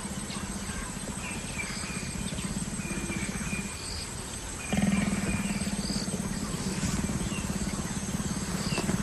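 Leopards growling during courtship, a low continuous growl that breaks off for about a second a little before halfway and then resumes louder. Small birds chirp faintly in the background.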